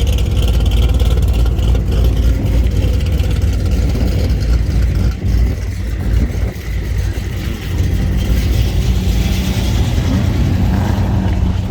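Car engines running with a steady low rumble, dipping a little partway through.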